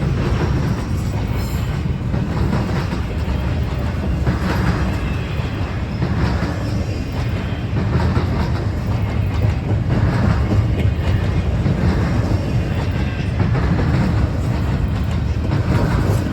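Train cars rolling past, with a steady low rumble of wheels on rail and a clickety-clack of wheels over the rail joints recurring every couple of seconds.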